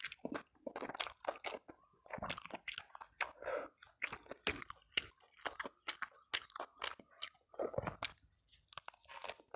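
Close-miked chewing of a mouthful of yellow-spiced chicken and rice, a quick, irregular run of wet crunches, clicks and smacks.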